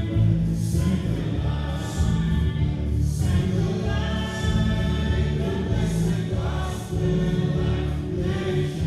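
Gospel choir singing with instrumental backing: a steady beat with a strong bass line and regular cymbal hits.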